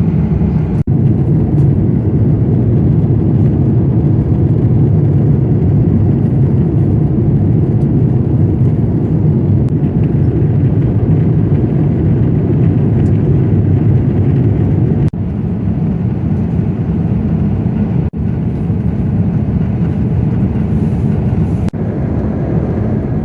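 Airbus A350 airliner cabin noise: a steady low rumble of engines and airflow, broken by brief drops about a second, fifteen seconds and eighteen seconds in.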